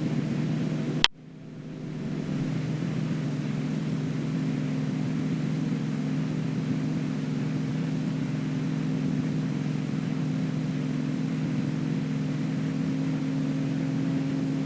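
Extra 300L's six-cylinder Lycoming engine droning steadily in the cockpit through a hammerhead manoeuvre. There is a sharp click about a second in, then a brief dip in level that recovers.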